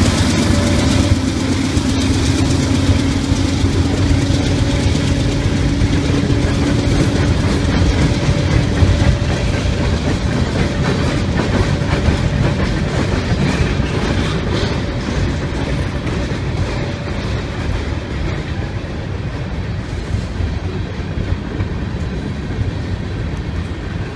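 Freight train passing: a diesel locomotive's engine drone, which fades over the first several seconds, then freight cars rolling by with wheels clacking over the rails.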